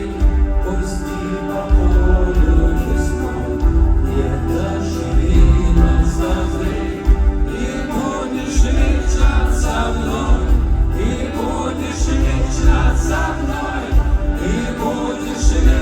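Live rock band music with a strong, pulsing bass. About halfway through, voices come in singing, sounding like many voices together.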